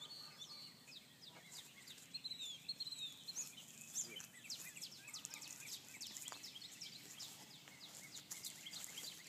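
Birds chirping: many short, quick high calls, each falling in pitch, repeated throughout over faint steady outdoor noise.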